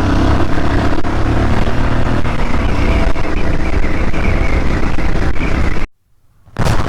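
Royal Enfield Himalayan Scram 411 single-cylinder engine running steadily under way, mixed with wind rush. The sound cuts out abruptly for about half a second near the end, then resumes.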